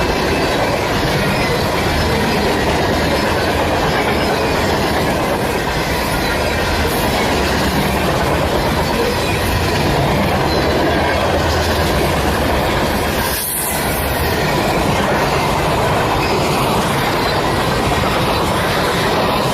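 A train rolling past on the tracks, a loud, steady rail noise of wheels running on steel, with a brief dip in level about two-thirds of the way through.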